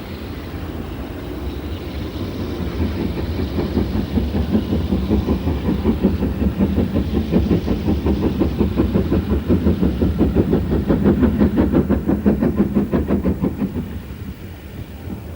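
GWR Manor class 4-6-0 steam locomotive 7819 Hinton Manor running past with its train, a fast, even beat growing louder over several seconds and falling away near the end.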